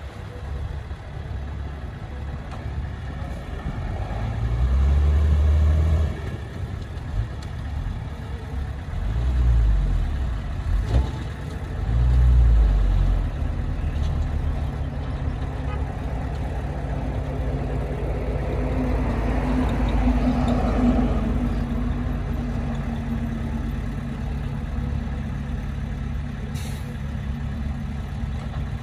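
Heavy diesel earthmoving equipment running, its engine swelling in three short surges in the first half, then a steadier drone.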